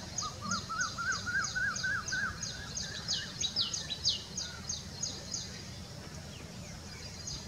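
Birds calling: a high, thin note repeated about three times a second that breaks off a little past halfway, with a run of short rising chirps lower in pitch in the first two seconds, over a steady low background hum.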